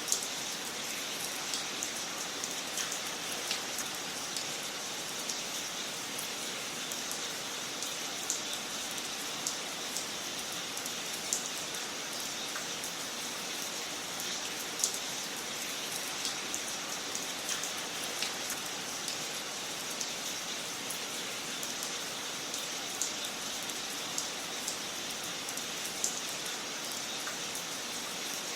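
Wood fire crackling in a fireplace: a steady soft hiss with irregular sharp pops and snaps scattered throughout.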